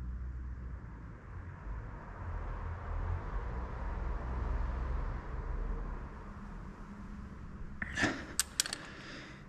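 Steady strain on a torque wrench tightening the camshaft sprocket bolt of a VW T5 engine toward 150 Nm, with a low rumble and faint hiss. About eight seconds in come a few quick metallic clinks of tool on metal.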